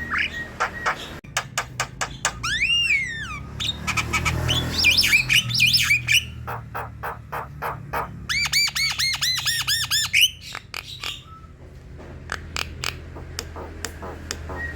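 Javan myna singing: a jumble of harsh squawks, dry clicks and sweeping whistles, with a fast run of about a dozen repeated whistled notes around eight to ten seconds in.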